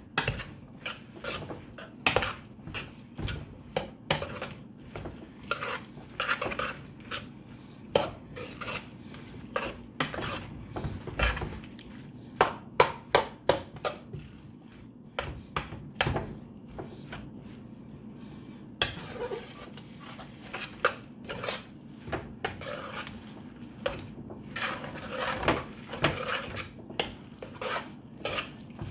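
A utensil stirring and turning chicken fried rice in a pan: irregular clacks and scrapes against the pan, several a second, over a low steady hum.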